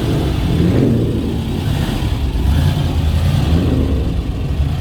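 A car engine running as the car rolls slowly past, a steady low-pitched sound.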